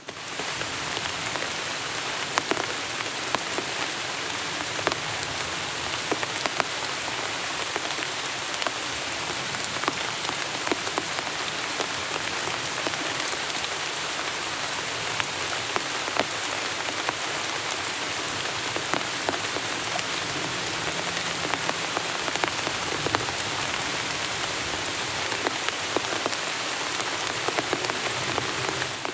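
Heavy rain falling steadily, with many sharp drops striking close by.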